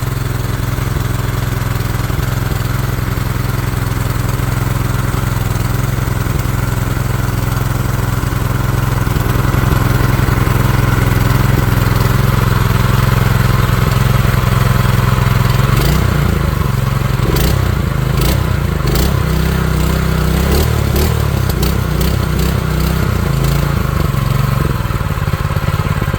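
Predator 212 non-Hemi single-cylinder four-stroke engine running steadily at governed full throttle shortly after a cold start, in its first break-in run. About two-thirds of the way through its note turns uneven and several sharp clicks sound over it.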